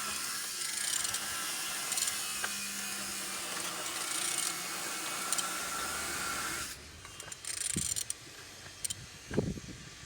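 Renault K9K 1.5 dCi four-cylinder diesel engine being turned over by hand, with mechanical clicking and rubbing over a steady hiss. The hiss stops about seven seconds in, and a few clicks and knocks follow. The engine turns freely, showing it is not seized.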